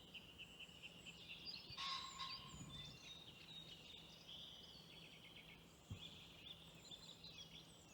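Faint calls and song of several small birds, a steady scatter of short chirps and whistles, with one louder call about two seconds in.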